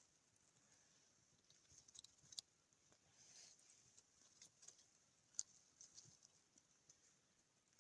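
Near silence, with faint scattered ticks and crackles here and there.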